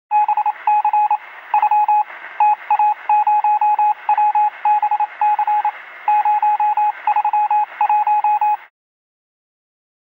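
Morse code sound effect: a single mid-pitched beep keyed on and off in short dots and longer dashes over a steady radio-like hiss, stopping near the end.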